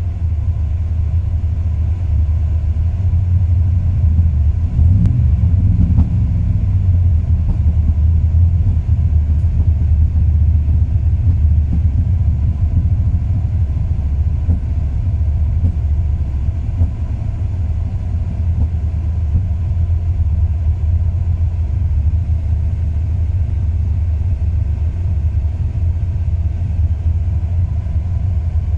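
2002 Ram 1500's 5.9-litre V8 idling with a low, uneven rumble that wavers most noticeably about five seconds in. This is the rough, dropping idle that the owner says comes on only once the engine is warm, even after new plugs, wires, cap, rotor, and cam and crank sensors.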